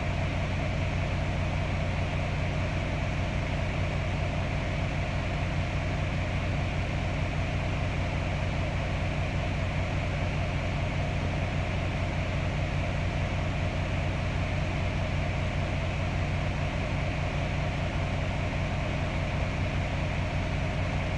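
A vehicle engine idling steadily: a constant low hum that does not change.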